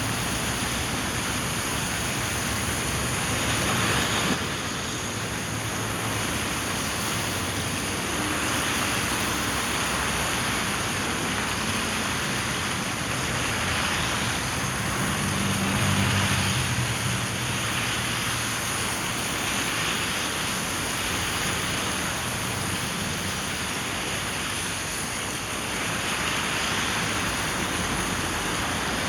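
Steady rushing noise of a car driving in the rain, with a low engine hum that swells briefly midway.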